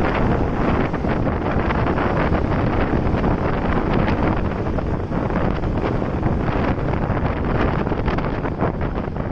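Steady wind rushing over the microphone of a moving motorcycle, with road and traffic noise beneath it.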